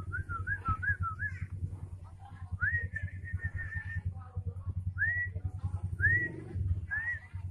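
White-rumped shama giving clear whistled notes: a wavering run, then a rising note with a short trill, then three short rising whistles about a second apart. A steady low hum runs underneath.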